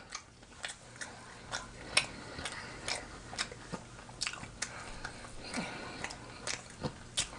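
A person chewing a mouthful of sandwich: soft wet mouth clicks and smacks at an irregular pace, about two a second.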